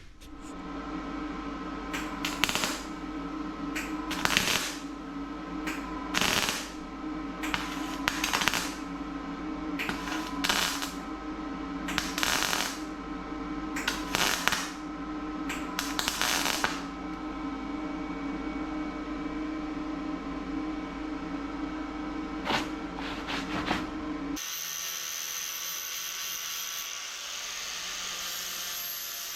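Welder laying short crackling bursts of weld on a small rust hole in a car body panel, about a dozen brief strikes in clusters over a steady hum. About 24 seconds in, a steady hissing whir with a high whine takes over.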